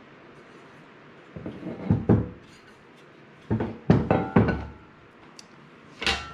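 Knocks and clunks of the metal corner pieces of a mobile base being handled and set down, in two short clusters, some with a brief metallic ring, then a single sharp click near the end.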